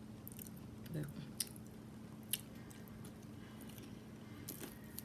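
Soft chewing and wet mouth sounds of someone eating, with a few faint sharp clicks over a low steady hum.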